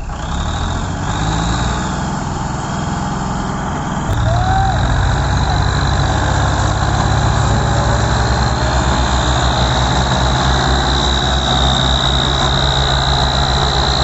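Diesel tractor engines running under heavy load, pulling an overloaded sugarcane trolley. About four seconds in they get louder, and a steady high whine joins them.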